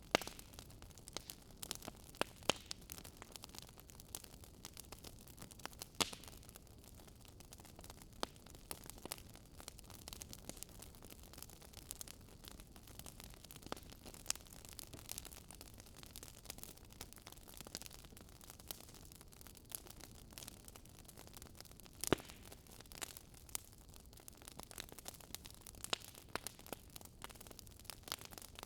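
Wood fire crackling in a fireplace: irregular sharp pops and snaps from the burning logs over a soft steady hiss.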